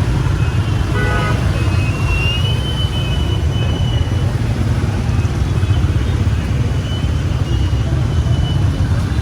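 Steady low rumble of street traffic, with motorbikes and cars passing, and faint voices from a crowd.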